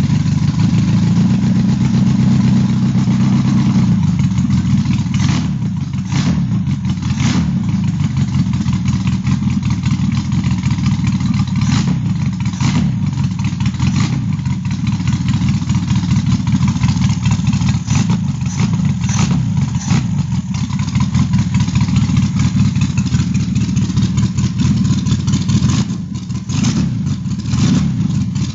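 Freshly rebuilt Renault 5 Alpine four-cylinder engine, with a lightened and balanced crankshaft and flywheel and a modified Alpine camshaft, running steadily at a low, even speed. A few short sharp sounds cut in now and then, mostly in the middle and near the end.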